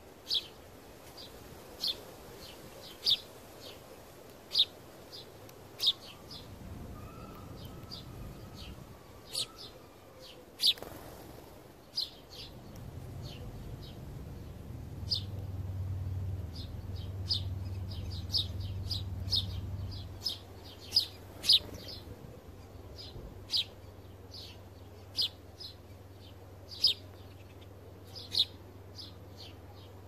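Small bird chirping repeatedly: short, sharp single chirps every one to two seconds. A low hum swells in the middle and then fades back to a faint drone.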